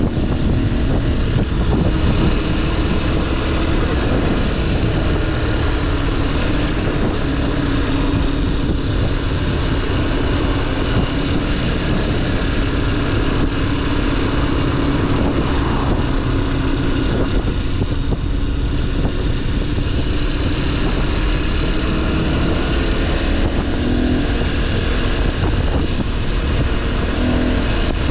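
Motorcycle engine running at a steady cruising speed, its pitch holding level with small rises and dips, under a constant rumble of wind on the microphone.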